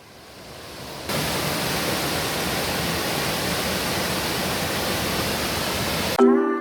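Steady rushing of a waterfall, faint at first and jumping louder about a second in. It cuts off sharply near the end, where plucked-string music begins.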